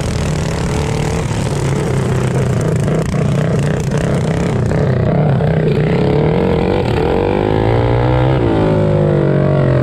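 Small mini bike engines running hard and revving, their pitch rising and falling as the bikes race; the swings are most marked near the end.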